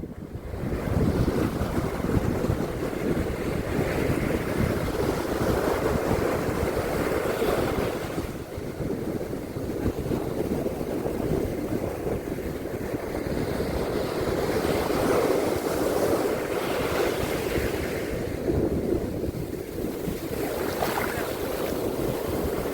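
Sea waves breaking and washing on a beach, surging and easing every few seconds, with wind buffeting the microphone.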